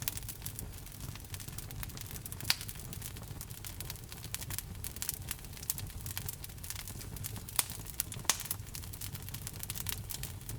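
Fire burning in a fireplace, crackling steadily over a low rumble of flames, with a few louder pops: one about two and a half seconds in and two close together around seven and a half to eight seconds.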